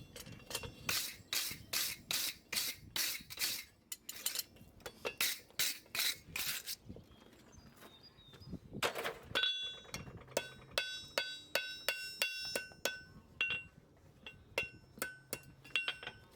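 Farrier's tools working a horse's hoof: repeated scraping strokes of a hoof rasp, about two to three a second, for roughly seven seconds. After a short pause comes a run of quick, light metallic taps and clinks that ring briefly.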